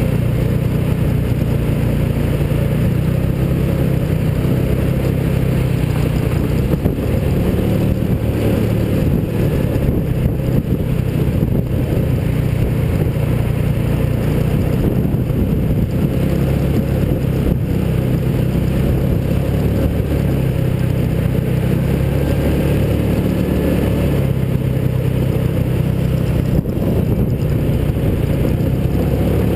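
Mini hot rod's small engine running steadily while driving, heard from on board with road and wind noise; the engine note rises and falls a little with speed, and there is a single brief knock near the end.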